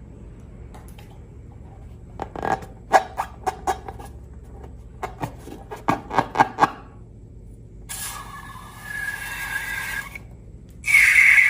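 Slime-and-balloon ASMR handling sounds: a run of about a dozen sharp clicks and snaps, then a hissing rush with a faint whistling tone, and a louder hissing rush near the end.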